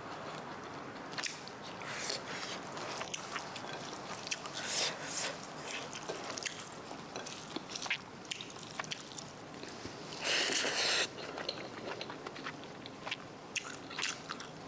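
A person eating close to the microphone: irregular crunching and chewing with small clicks, and a louder crunching or rustling burst about ten seconds in.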